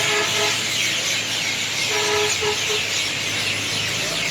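A large flock of birds calling all at once at an evening roost in coconut trees, a dense chatter of many overlapping chirps. A vehicle horn sounds twice: once ending just after the start and once about two seconds in, breaking into short toots at the end.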